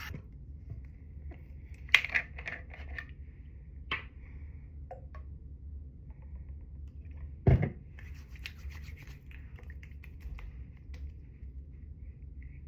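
Small handling sounds: scattered clicks and knocks with light scratching and rubbing, the loudest knock about seven and a half seconds in.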